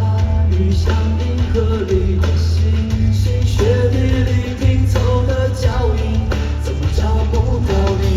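Live band music: a rock ballad played at concert volume, with a very heavy, boomy bass under a wavering melody line.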